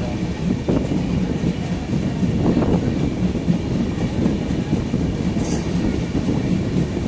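Passenger train running, a steady rumble of wheels on the rails, with a brief high squeal about five seconds in.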